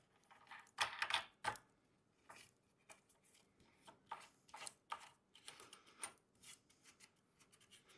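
Irregular light clicks and taps of metal hardware being handled, a few louder knocks about a second in, as a nut and washers are fitted onto a carriage bolt on the plate compactor's handle.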